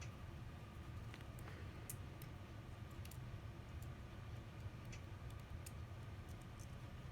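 Faint, irregular small clicks and ticks over a low steady hum, from handling an iPhone SE during a screen repair.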